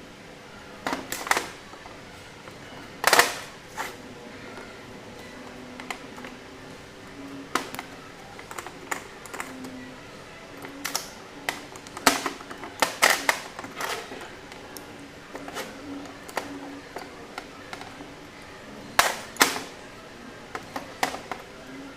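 Irregular sharp clicks and clinks of small carburetor parts and hand tools being handled and set down, coming singly or in quick clusters, with the loudest about three seconds in, around twelve to thirteen seconds, and near nineteen seconds.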